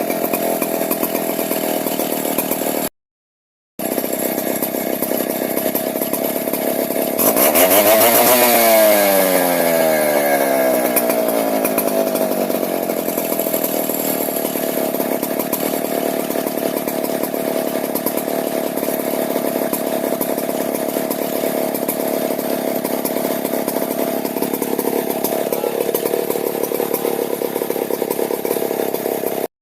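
Stihl 070 two-stroke chainsaw engine running, revved up about seven seconds in and then settling back to steady running. The sound cuts out briefly near three seconds.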